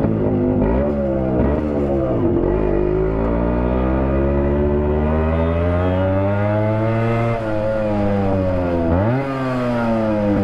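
Yamaha RX100's 98 cc two-stroke single-cylinder engine, its silencer baffle mesh removed, running loud and raw while riding. The pitch rises and falls as it is revved, with a long slow climb, a drop, and a sharp rise near the end.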